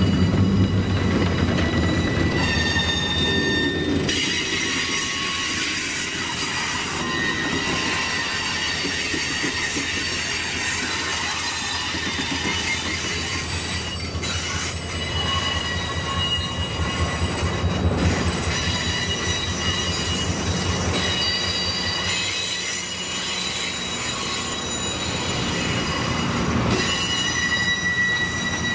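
A diesel-hauled train passing close by at a grade crossing: the streamlined cab-unit locomotive's engine rumbles loudest in the first few seconds, then a passenger coach, gondola and caboose roll past with steel wheels squealing steadily on the rail.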